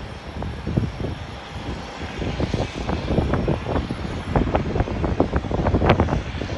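Jet airliner engine noise partly buried under heavy wind buffeting on the phone's microphone, which gusts and thumps irregularly.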